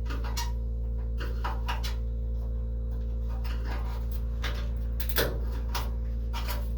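Screwdriver prying at a clipped-on chrome bonnet emblem: scattered small metal clicks and scrapes, with one louder knock about five seconds in. A steady low hum runs underneath.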